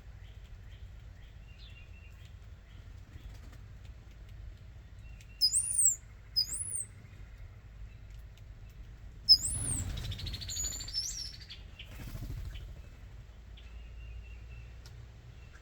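High, sharp songbird chirps, a few about five and a half to seven seconds in and more around nine to eleven seconds. A fluttering whirr of bird wings joins the second group as a bird flies in or takes off.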